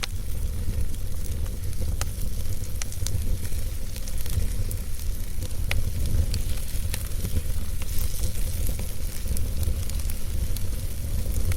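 Wood fire burning in a fireplace: a steady low rumble of the flames with irregular sharp crackles and pops of the logs, a couple standing out about two seconds in and near the six-second mark.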